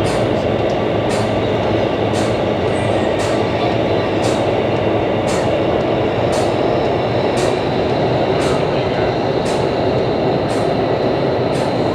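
Indoor skydiving vertical wind tunnel, its fans driving a loud, steady rush of air, with faint high ticks about once a second.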